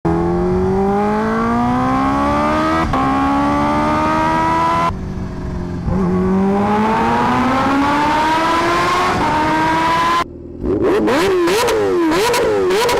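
Kawasaki Ninja H2R's supercharged inline-four accelerating hard, its pitch climbing through the gears with a shift about three seconds in, a short lift around five seconds and another climb and shift near nine seconds. In the last couple of seconds the engine is revved up and down in quick blips.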